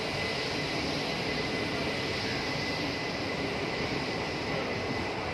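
Indian Railways passenger coaches rolling past on the track: a steady rumble and rush of wheels on rail.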